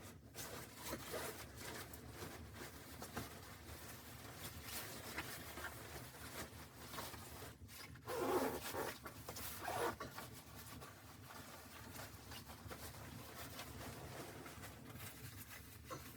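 Continuous rustling and scratching, with a louder scrape about eight seconds in and another near ten seconds.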